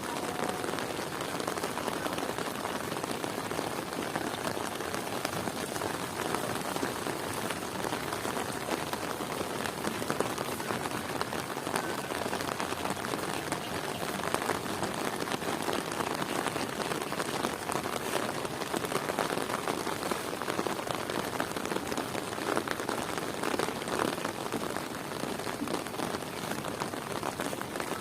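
Heavy rain falling steadily: a dense, even patter of drops that keeps up without a break.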